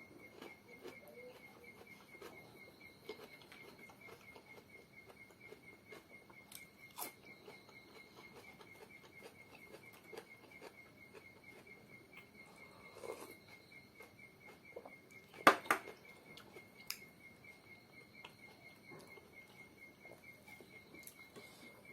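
Small scattered clicks and soft mouth sounds of someone eating, with a sharper double clack about two-thirds of the way through, over a steady, high, rapidly pulsing insect trill.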